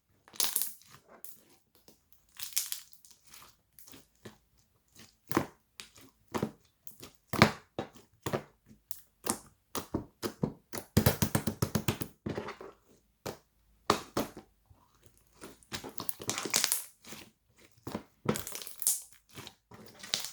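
Irregular crinkling and crushing noises in short bursts, with a quick run of rapid clicks about eleven seconds in.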